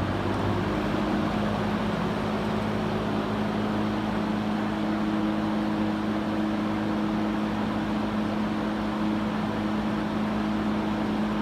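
Mid-1960s International box fan with a universal motor running on high, the top of its five speeds: a steady rush of air from the blades over a steady motor hum.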